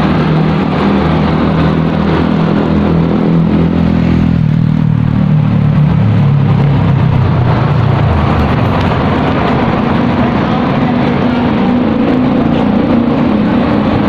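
City road traffic heard from a moving bicycle: the engine hum of a motor vehicle close by shifts in pitch and fades about eight seconds in, over a steady rush of traffic and air noise.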